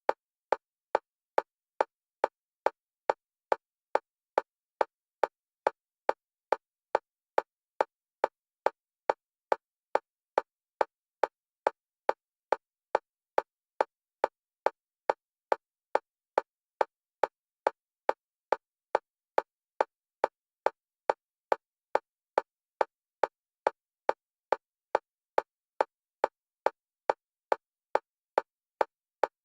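Single-pitched metronome click repeating evenly, a little over two clicks a second, alternating between left and right stereo channels: an EMDR bilateral stimulation track.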